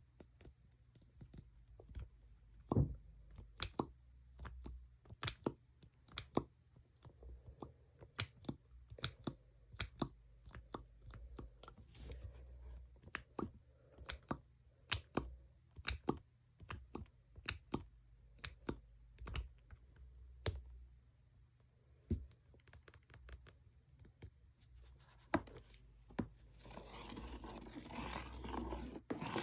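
Fingernails tapping on makeup packaging: many quick, irregular clicks. A few seconds before the end this gives way to a stretch of steady scratching.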